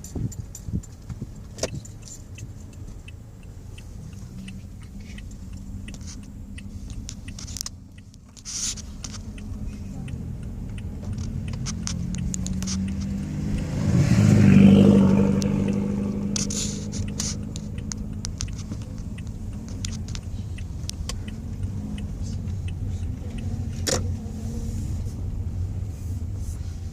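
A car engine running steadily, with a louder swell about halfway through as a vehicle comes close and moves off, and scattered light clicks.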